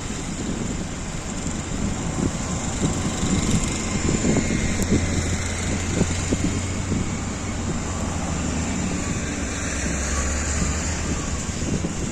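City street traffic noise, with a vehicle engine's steady low hum running under it.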